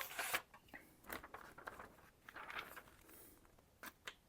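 A small, freshly sharpened hunting knife making several short, scratchy cutting strokes as its edge is tested for sharpness.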